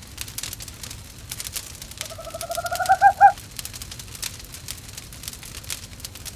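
Wood fire crackling in a fireplace, with an owl calling about two seconds in: a quavering trill that rises slightly in pitch over about a second and is loudest in its last two notes.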